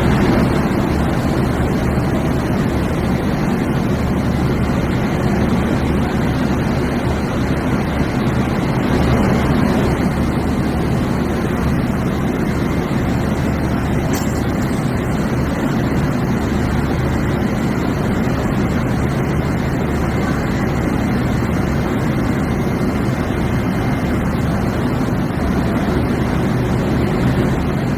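Railway locomotive running with a steady, loud low drone.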